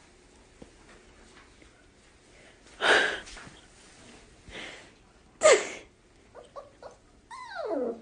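A dog making noises: two short, loud, noisy blasts about two and a half seconds apart, a few brief squeaks, then a whine that falls steeply in pitch near the end.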